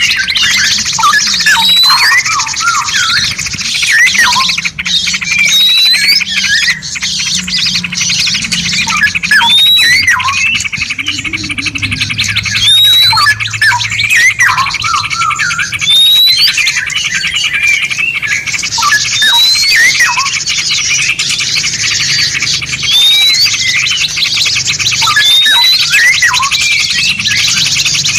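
Several songbirds chirping and calling at once, with a short rising whistle repeated every second or two, over a steady hiss: a masteran recording of mixed songbird song used to tutor cage birds.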